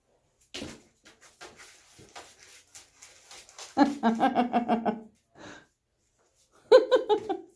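Blue Great Dane puppies playing: light scratching and clicking for the first few seconds, then two short bouts of pulsing, pitched puppy vocalising, one about four seconds in and a higher one near the end.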